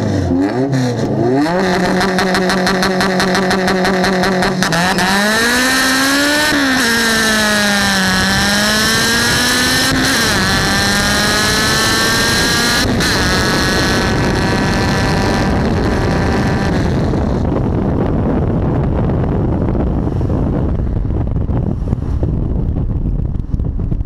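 Honda drag car's engine blipped and then held at steady revs on the start line. About five seconds in it launches and pulls hard through the gears: the note climbs and drops back at each upshift, three times. Past the two-thirds mark the engine note falls away, leaving wind and road noise rushing past the side-mounted camera as the car coasts.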